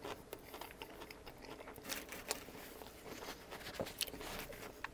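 Close-miked chewing of a mouthful of toasted sub sandwich: scattered soft crackles and wet mouth clicks.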